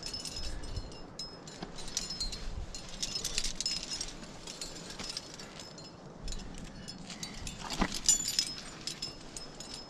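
Metal climbing gear such as carabiners jangling and clinking as it is moved, in irregular runs of small ringing clinks, with a louder clatter about eight seconds in.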